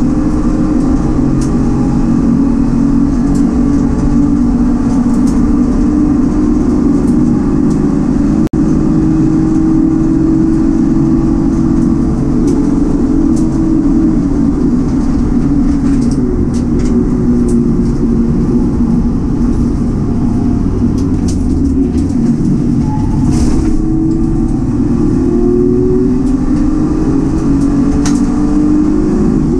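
Citroen C1 race car's petrol engine running hard at high revs under racing load. Its pitch holds fairly steady, then climbs again over the last few seconds.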